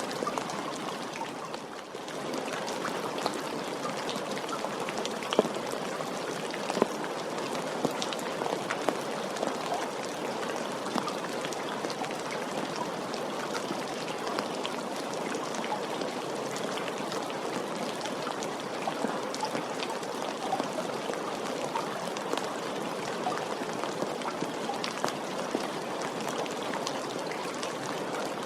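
Steady rain falling, with scattered single drops ticking out sharply now and then; it dips briefly about two seconds in, then carries on evenly.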